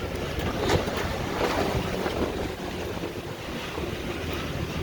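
Boat engine running steadily under the rush of water along the hull, with wind buffeting the microphone in gusts.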